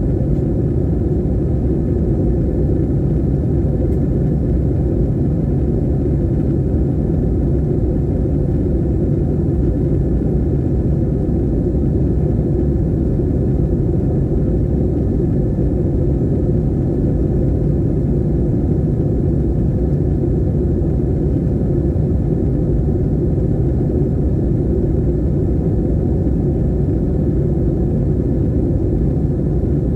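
Airplane cabin noise in flight: a steady, unchanging low rumble of engines and airflow.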